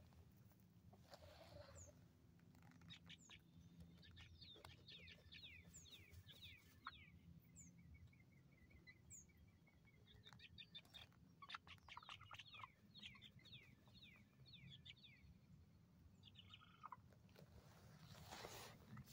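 Faint chirping of small birds: runs of quick, short chirp notes with a few thinner, higher notes between them. A short rustle comes near the end.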